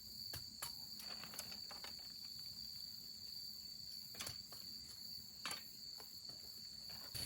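Crickets trilling steadily in one high, unbroken tone, with a few sharp clicks scattered through it.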